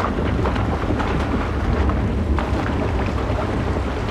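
Heavy rain pouring down steadily, a dense hiss full of small splashes, over a steady low rumble.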